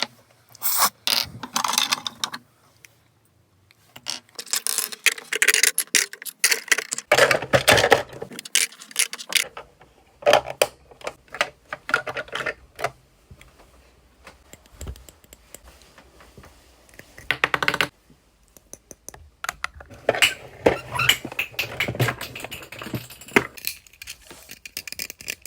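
Small hard plastic objects being handled: irregular clusters of clicks, taps and rustling with short pauses between them.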